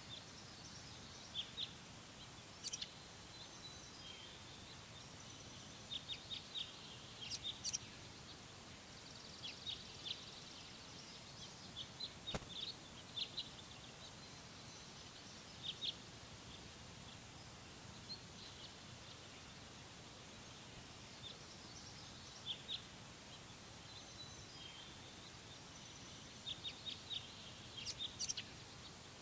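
Small birds chirping in clusters of short, high calls over a steady faint background hiss, with a single faint click about twelve seconds in.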